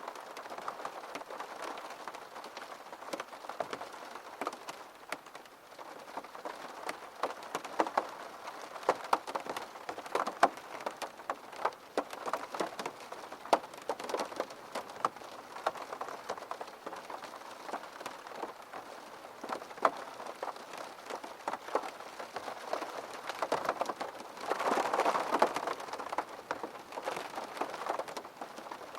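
Steady rain falling, with many sharp clicks of individual drops landing close by. About four seconds from the end it swells into a brief, heavier burst.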